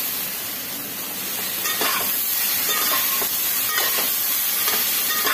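Vegetables sizzling as they fry in oil in an aluminium pot. From about two seconds in, a metal spoon stirs them, scraping and clinking against the pot's sides several times.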